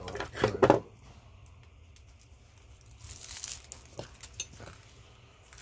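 Copper winding wire being pulled out of a small electric motor, crinkling and tearing: a cluster of scratchy pulls at the start, a short hissing scrape about three seconds in, and a few light ticks after.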